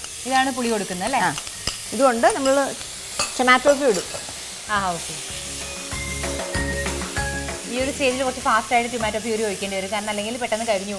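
Onion, garlic and chili-powder masala sizzling in a nonstick wok as a silicone spatula stirs it. Background music with a singing voice plays over it, most prominent in the first four seconds and again near the end.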